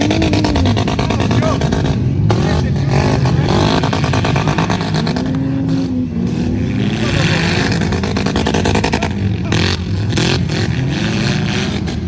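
Several demolition-derby vehicle engines running and revving at once, their pitch rising and falling as they are pushed hard, with sharp knocks here and there.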